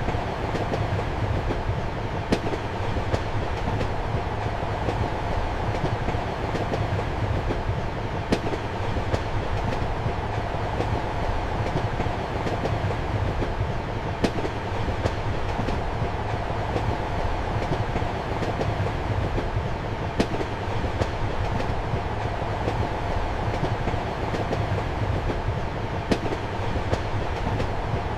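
Train running on rails, heard from inside a compartment: a steady rumble and hum of the carriage, with the wheels clicking sharply over rail joints about every six seconds and fainter clicks in between.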